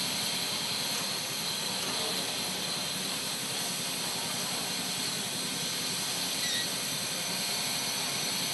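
Steady hiss of steam from a standing steam locomotive, Canadian National 4-8-2 No. 6060.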